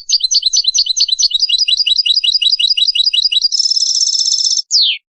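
Goldfinch mule (European goldfinch × canary hybrid) singing one song phrase. It opens with a fast run of repeated high notes, each sweeping downward, about five a second. These change into a buzzy trill lasting about a second, and the phrase ends with one longer falling note before it cuts off.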